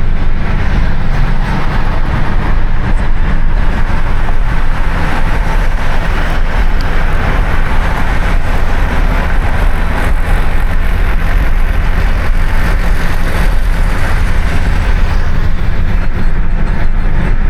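Steady, loud road and engine rumble of a car driving along, heard from inside the moving vehicle.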